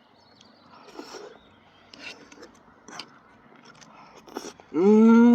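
Scattered faint scrapes and clicks, then near the end a loud pitched voice-like call that rises briefly and holds one steady note for under a second.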